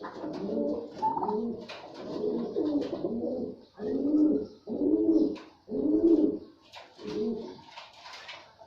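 Pigeons cooing, with several low rolling coos overlapping; three louder single coos stand out about four, five and six seconds in.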